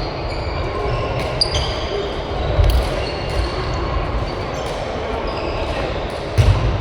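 Badminton rally in a sports hall: a few sharp strikes of rackets on the shuttlecock, short high squeaks of shoes on the court floor, and a background murmur of voices.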